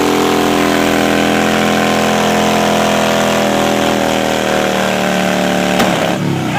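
Motorcycle engine held at high, steady revs during a burnout, with a rushing noise from the spinning rear tyre under it. Near the end there is a sharp click and the revs drop away.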